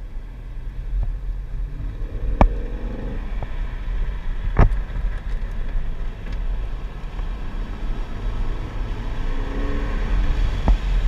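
Chevrolet Corvette C7's V8 engine running hard on a race track, heard from inside the cabin with a steady rumble of road and wind noise. There are two sharp knocks, about two and a half and four and a half seconds in.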